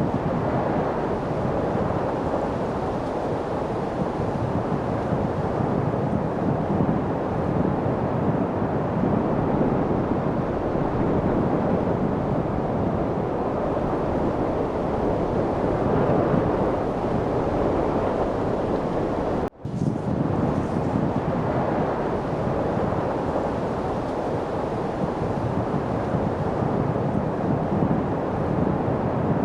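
Steady wind noise, an even rushing hiss with no distinct events, broken by a momentary dropout about twenty seconds in.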